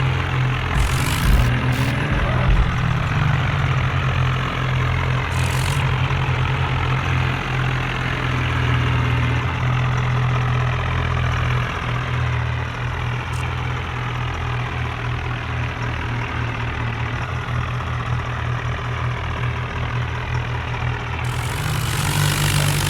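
Diesel tractor engines running hard with a deep, continuous rumble, the pitch briefly rising and falling about two seconds in and the sound getting louder near the end.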